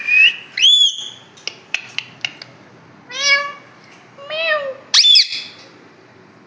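Pet parrot calling: two short shrill squawks at the start, a few sharp clicks, then two drawn-out calls that rise and fall in pitch, and a loud shrill squawk about five seconds in.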